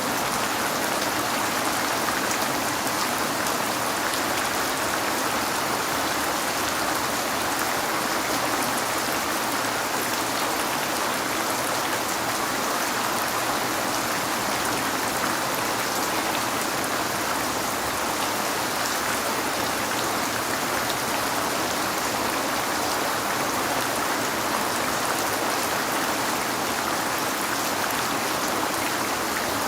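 Steady heavy rain falling, an even dense hiss with fine drop patter, unchanging throughout.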